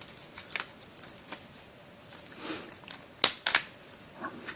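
Scattered plastic clicks and light rustling as a 144-piece magic snake puzzle is handled, with one sharper click about three seconds in.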